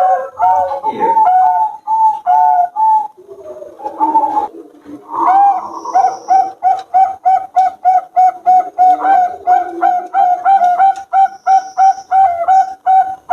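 Zebra doves (Bangkok perkutut) cooing in a fast run of short, repeated notes, about three a second, with more than one bird calling at times. The run breaks a few seconds in for a lower, rougher stretch before the quick coos resume.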